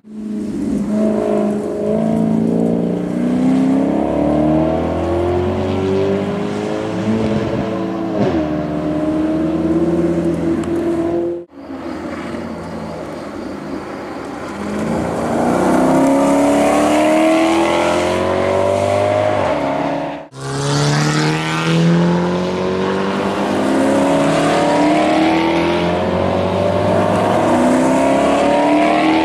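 Maserati Quattroporte Sport GTS's 4.7-litre V8 accelerating hard through the gears, its exhaust note climbing in pitch and dropping back at each upshift. The sound breaks off abruptly twice, in three separate runs.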